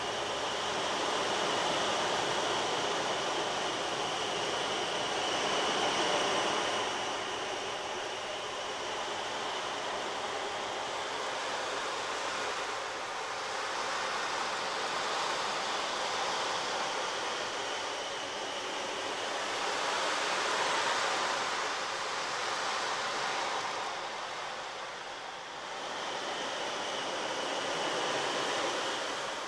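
A continuous rushing, surf-like noise that swells and recedes every several seconds, with a faint high ring in some of the swells.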